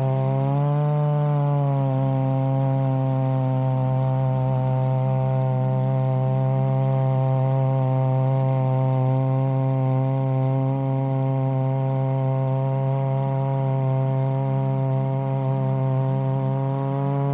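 Chainsaw running steadily at high speed in a chainsaw mill, ripping a log into boards; its pitch swells up briefly about a second in, then holds steady under load.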